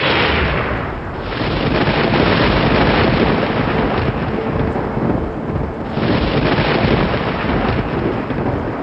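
Thunder rolling loudly. A clap breaks just before, and the rumble swells again about a second in and about six seconds in.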